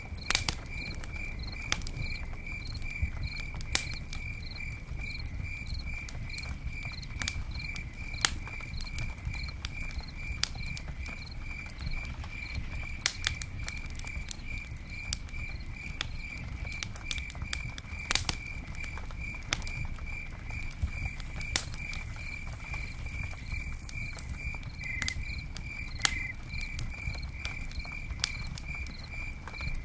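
Campfire burning, with scattered sharp crackles and pops over a low steady rumble. A cricket chirps throughout in an even, rapid pulse.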